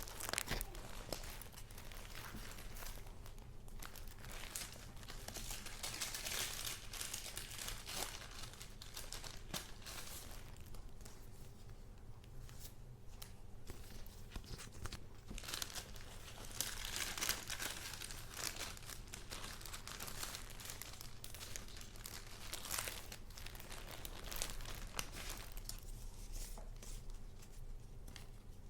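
Paper crafts being handled: sheets and journal pages rustling and crinkling in irregular spells, with a sharp click near the start.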